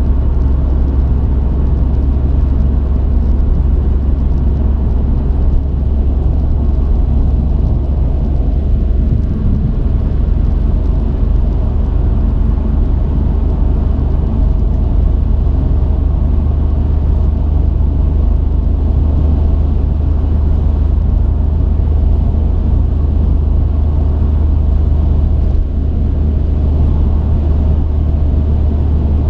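A truck's engine and road noise, heard from inside the cab as a steady low drone while the truck drives along.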